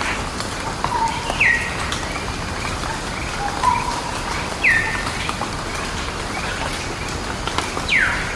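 Wild birds calling: short level whistles alternating with quick downward-slurred notes every second or few, with one longer falling call near the end, over a steady hiss.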